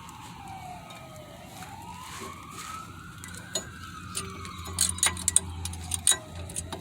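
A siren wails slowly up and down in the background, falling, rising and falling again. Over it come sharp metallic clicks and clinks, loudest in the second half, as new brake pads are seated into a disc-brake caliper bracket.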